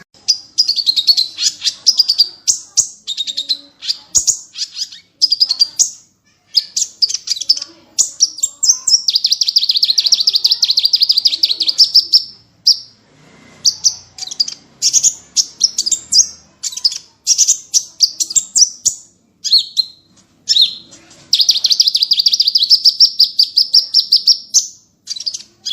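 Small songbirds singing high, rapid trills and chattering phrases, broken by short pauses. Two long unbroken runs of fast repeated notes (the 'tembakan' that bird keepers prize) come in the middle and again near the end.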